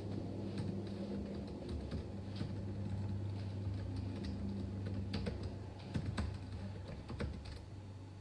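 Scattered light clicks at an irregular pace over a steady low hum.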